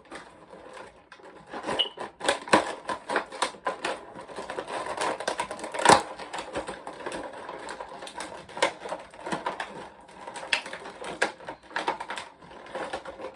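Hands opening an action figure's box: a steady run of irregular clicks and taps from the handled packaging, with one sharper knock about six seconds in.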